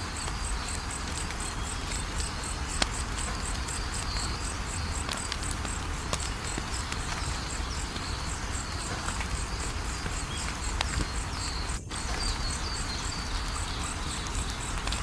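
Wood fire burning with a steady hiss and low rumble, and an occasional sharp crackle or pop. Over it, an insect chirps steadily at a high pitch, about three chirps a second. The sound cuts out for an instant a little before the end.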